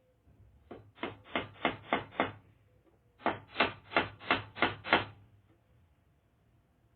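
Hammer driving a nail: a run of about six steady blows, a short pause, then about seven more at about three blows a second.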